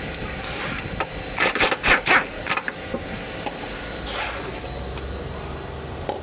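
A quick run of sharp knocks and clicks, about a second and a half in, over a steady background. These are hand tools at work on a car's front shock absorber.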